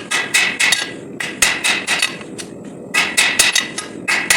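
Hand hammer striking SAE 5160 steel bar on an anvil during forging, in quick runs of ringing blows with short pauses between runs.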